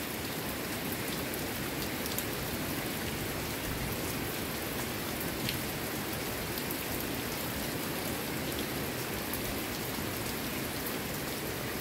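Steady rain falling on thatched roofs and a wet lane, water running off the eaves, with an occasional single drip standing out.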